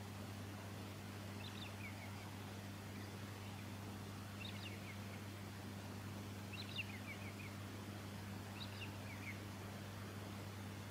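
Silvereye giving short bursts of high twittering chirps, four times a couple of seconds apart, over a steady low hum.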